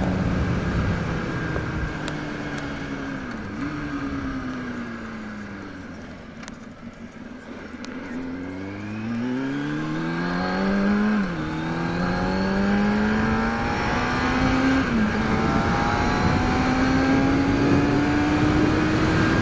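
Inline-four sport bike engine slowing down, with a short jump in pitch a few seconds in as it downshifts, then accelerating hard through the gears: the pitch climbs, drops suddenly at two upshifts, and climbs again.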